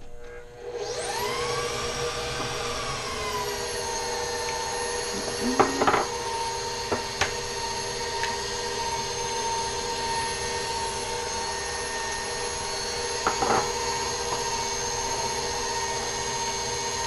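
Bowl-lift stand mixer motor starting up about a second in, its whine climbing and settling into a steady speed as it beats the creamed butter mixture. Two brief clatters break in partway through and again later.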